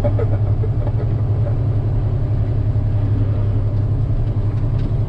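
Diesel log truck engine running steadily under way, a strong even low hum with faint rattles over it.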